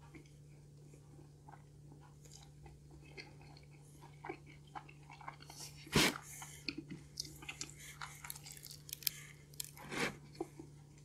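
Close-miked chewing of cheesy stuffed-crust pizza speckled with breadcrumbs, with small wet mouth clicks throughout, a louder bite and crunch about six seconds in, and another loud crunch near the end. A steady low hum runs underneath.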